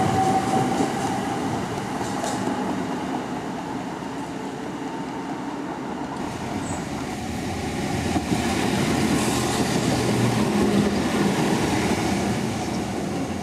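Passenger train running at the station platform: steady wheel-on-rail rumble, with a faint whine that rises slightly in pitch at the start. The noise dips in the middle and swells again near the end.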